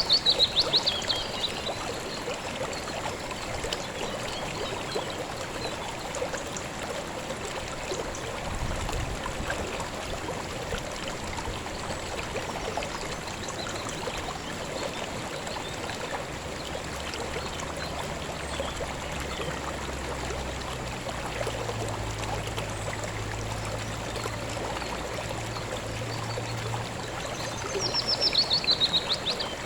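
Stream water running and trickling steadily. Twice, once right at the start and again near the end, a rapid trilled call falls in pitch over about a second and a half, louder than the water.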